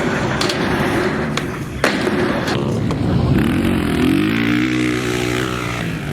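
Skateboard wheels rolling over pavement with sharp clacks, one loud clack about two seconds in, while a motor vehicle's engine hums past in the second half.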